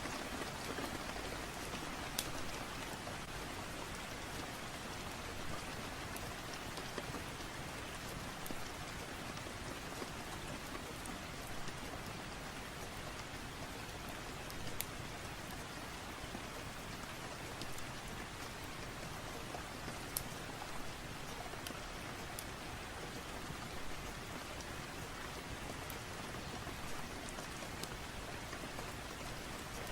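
Steady rain falling on a surface, an even patter with a few sharp ticks scattered through it.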